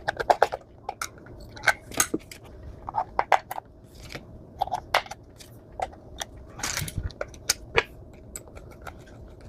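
Irregular small clicks, taps and scrapes of plastic and metal as AAA batteries are fitted into the battery compartment of a handheld sound level meter.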